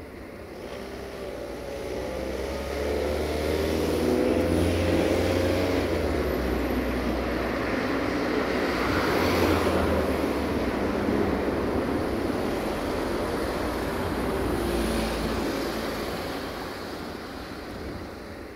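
A train passing close by: a steady low drone that builds over the first few seconds, holds, then fades away near the end.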